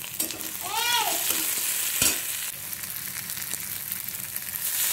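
Chopped onion, green chillies and tomato sizzling in hot oil in a wok while a flat spatula stirs and scrapes them. A single knock of the spatula against the pan comes about two seconds in, and a short high-pitched call about a second in.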